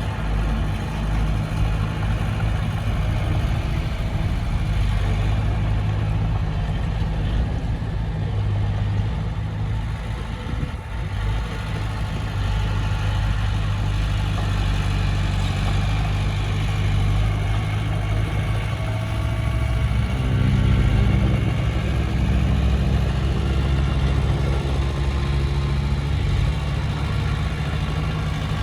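Heavy diesel engine of an earthmoving machine running steadily. About twenty seconds in it picks up and runs louder and deeper.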